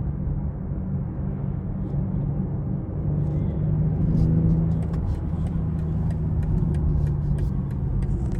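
2020 BMW X6 40i's turbocharged inline-six engine and tyres giving a steady low rumble while driving, with the engine hum swelling slightly about four seconds in. Scattered light clicks join from about halfway.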